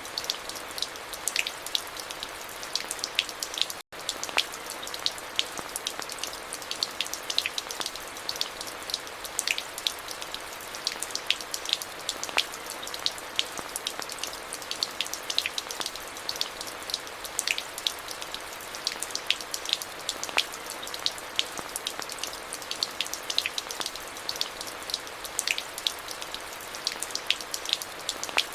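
Steady rainfall, an even hiss with many individual drops ticking sharply on hard wet surfaces. There is a split-second dropout in the sound about four seconds in.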